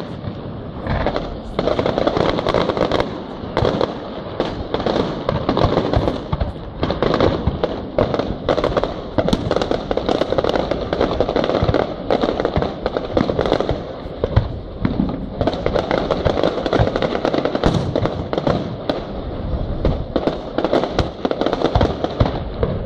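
Fireworks display: aerial shells bursting one after another in a dense, irregular string of bangs and crackles with no pause.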